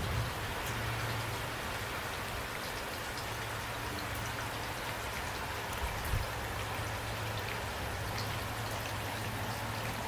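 Steady rain falling, an even hiss with individual drops ticking on a surface, under a steady low rumble. Two soft low thumps come about six seconds in.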